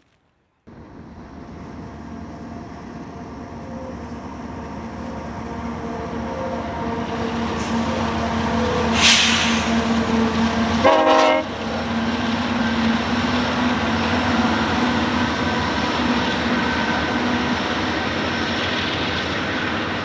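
Union Pacific diesel-hauled freight train approaching and growing steadily louder, with low engine tones. There is a brief loud burst about nine seconds in and a short harsher sound about eleven seconds in.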